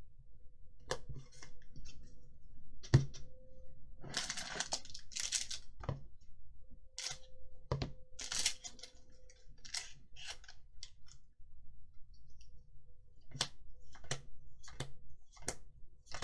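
Magic: The Gathering cards being handled and flicked through: scattered sharp clicks and taps, with a few short rustles of cards sliding against each other. The sharpest tap comes about three seconds in.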